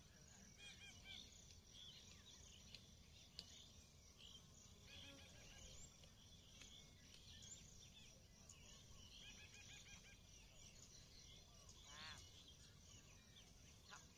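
Faint birdsong: scattered chirps and calls from several birds, with a quick run of repeated notes about twelve seconds in, over a low steady rumble.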